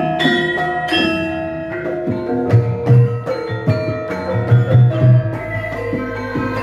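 A Javanese gamelan ensemble playing a gending: bronze metallophones ring out a run of struck notes, with several low drum strokes in the middle.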